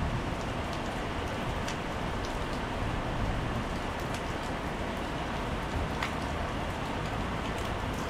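Steady rain falling on wet paving, a constant hiss with single drops ticking close by now and then.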